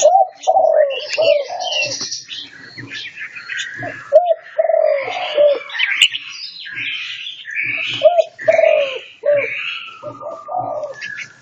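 Several caged songbirds calling and singing at once: a dense mix of high chirps, trills and whistled phrases over groups of lower, short arching notes.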